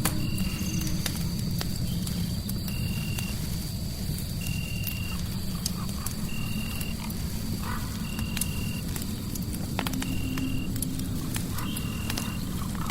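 Crackling fireplace: scattered sharp pops and snaps over a low steady rumble. A short high chirp repeats about every two seconds, over a faint steady high tone.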